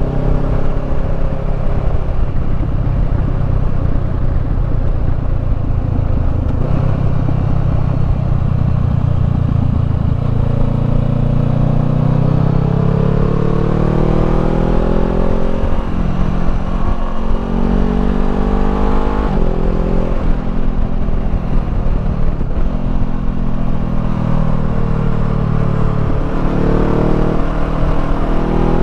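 Honda CBR500R's parallel-twin engine through a Termignoni slip-on exhaust, running at a fairly even speed at first, then accelerating hard through the gears: the engine pitch climbs and drops back sharply at each of about four upshifts.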